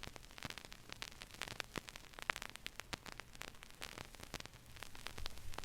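Crackling static after the music ends: irregular clicks and pops over a faint hiss, with a low steady hum underneath.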